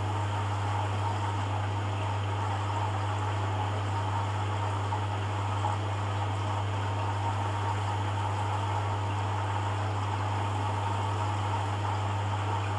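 Hoover Dynamic washing machine running through its rinse cycle: a steady low hum with an even rushing of water, unchanging throughout.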